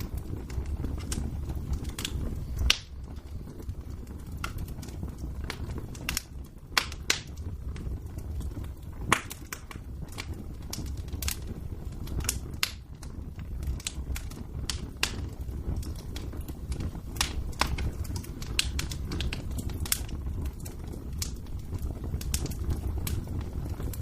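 Wood fire crackling in a fireplace: irregular sharp pops and snaps over a low steady rumble, with two louder pops about 3 and 9 seconds in.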